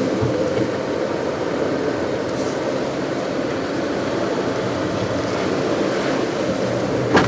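Car driving on a wet road: steady road and tyre noise with a hiss of spray. A single sharp click near the end.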